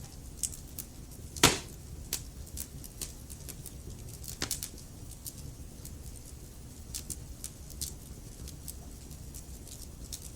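Log fire in a fireplace crackling, with irregular small snaps and a sharp louder pop about a second and a half in and another a few seconds later, over a low steady rumble of the flames.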